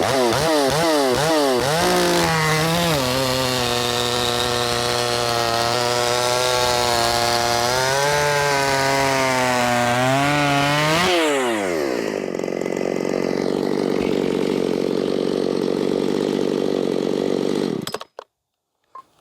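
Shindaiwa 757 two-stroke chainsaw revved a few times, then held at full throttle cutting a log with a freshly hand-sharpened chain, its revs sagging a little under load. About eleven seconds in it drops back to idle, then stops suddenly near the end.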